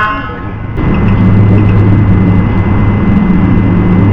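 Ford Crown Victoria police car's V8 engine running steadily with a low, even hum; it dips in the first second and then holds.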